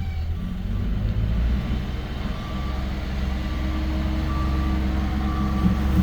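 VW Polo 1.4 TDI PD (BNV) three-cylinder diesel engine idling steadily on a test run.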